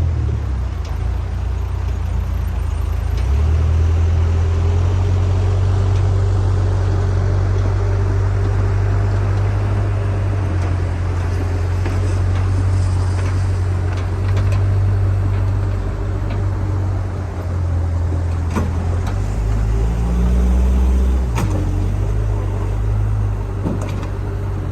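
Diesel engine of a JCB backhoe loader running steadily, its low note shifting in level and pitch several times as the load changes, with a few short sharp knocks in the second half.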